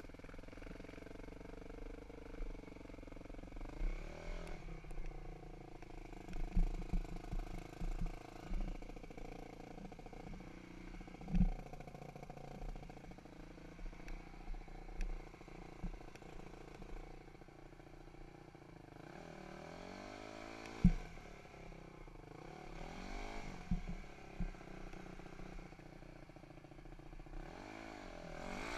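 Dirt bike engine running on a trail, its pitch rising and falling as the throttle is worked, with scattered knocks and clatter and two sharp thumps, about a third of the way in and about two thirds of the way in.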